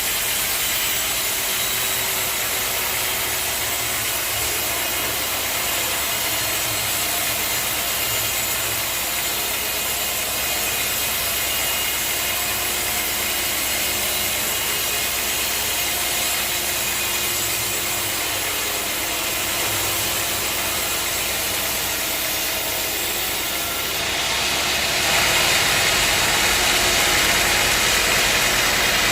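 Sawmill machinery running steadily, a motor's hum under a broad hiss. About four-fifths of the way through it grows louder and the hiss gets stronger and higher.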